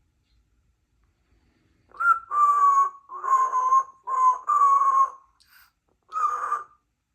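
Congo African grey parrot calling: a run of about five loud, drawn-out notes at a steady pitch starting about two seconds in, then one shorter note near the end.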